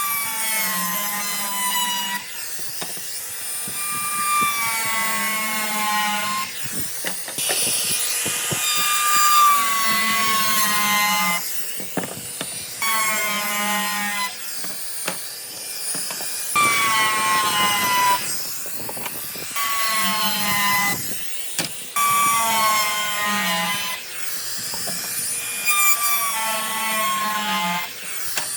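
A power tool cutting wood in repeated passes of a few seconds each, its motor whine sagging in pitch as it bites into the wood and recovering between cuts.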